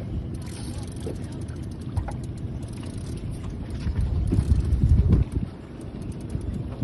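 Wind buffeting the microphone in a small open boat: a low rumbling noise that gusts louder about four seconds in, then drops back.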